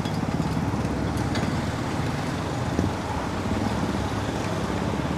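Steady road traffic noise: motor vehicle engines running close by, with wind rumbling on the microphone.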